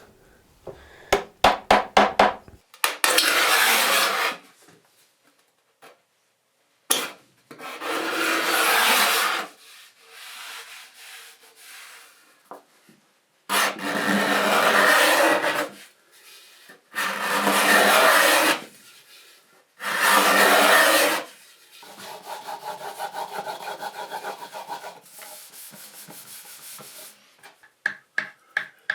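A hand tool rubbing along wood in long strokes: a quick run of light taps, then five loud strokes of a second and a half to two and a half each, then softer, quicker rubbing near the end.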